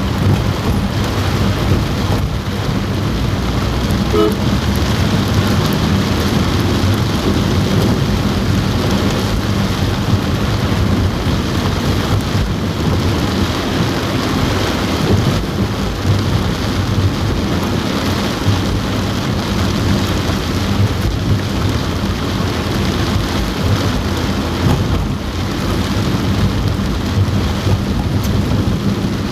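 Heavy rain falling on a car roof, a steady dense patter with a strong low rumble underneath.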